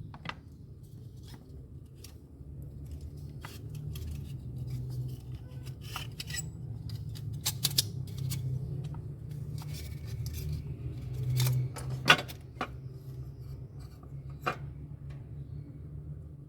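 Scattered clicks, snips and knocks of hand tools working on a refrigerator's parts, over a steady low hum. The sharpest click comes about twelve seconds in.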